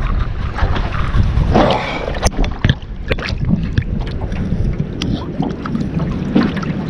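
Strong wind buffeting the microphone in gusts, a dense low rumble, with a few sharp knocks scattered through it.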